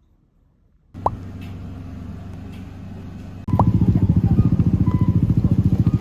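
A motor vehicle's engine running with a low throb. It starts suddenly about a second in and gets louder and faster-pulsing about three and a half seconds in.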